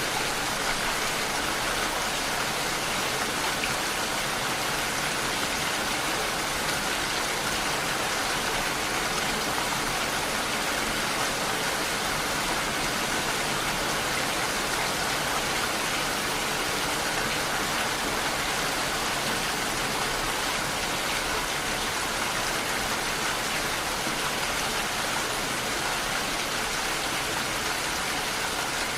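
Steady rain falling, an even hiss with no distinct drops or thunder claps standing out.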